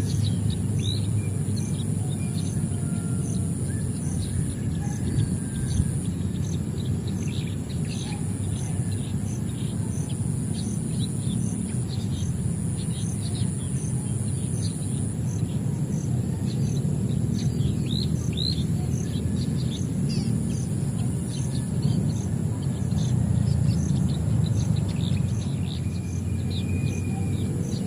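Small birds chirping in many short, high calls over a steady low rumble. A continuous high drone with a faint pulse about twice a second runs beneath them.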